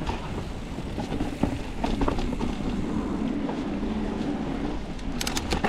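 Wind buffeting the action-camera microphone over the rumble of mountain bike tyres rolling on dirt singletrack, with a quick run of sharp clicks near the end.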